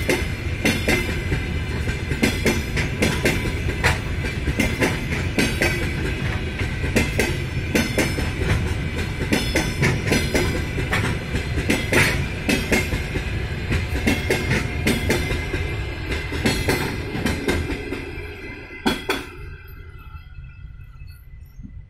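Passenger coaches of a long train rolling past, wheels clacking over rail joints over a low rumble, with a thin high squeal from the wheels. The sound dies away quickly after a last clack about nineteen seconds in, as the end of the train passes.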